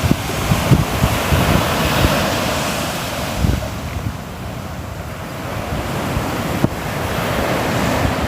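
Sea waves washing onto a shore, one wave swelling over the first few seconds, ebbing about four seconds in and another building near the end, with wind buffeting the microphone in low rumbling gusts.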